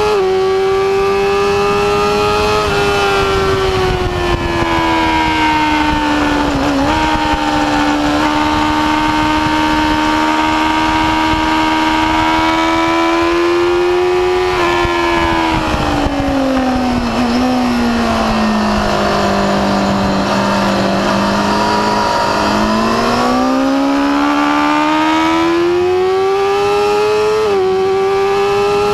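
Yamaha R6 inline-four sport-bike engine at racing revs under full throttle, its high whine dropping sharply at each upshift near the start and again near the end. About halfway through the revs fall away for a corner, hold low for a few seconds, then climb steadily back up, with wind rush underneath.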